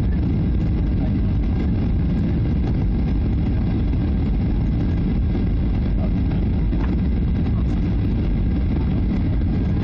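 Steady cabin roar of a Boeing 737-800 in flight: its CFM56 jet engines and the rush of air over the fuselage make an even, deep rumble with no change in level.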